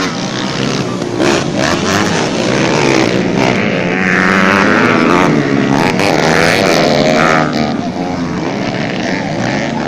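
Several racing dirt bike engines revving and changing pitch as motorcycles ride the track. They are loudest in the middle, as bikes pass close, then ease off.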